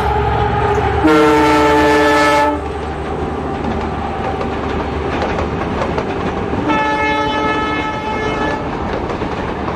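Diesel-hauled passenger train running past with a steady rumble from its wheels and coaches. The locomotive's multi-tone horn sounds twice: a loud blast about a second in lasting about a second and a half, and a second, longer blast about seven seconds in.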